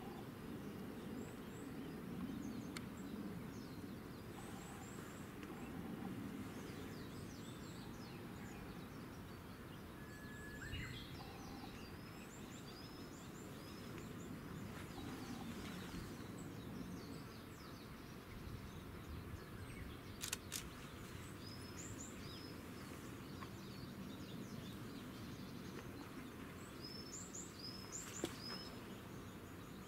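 Small birds chirping in short, high, repeated notes over a steady low rumble of outdoor background noise, with a few sharp clicks about two-thirds of the way through.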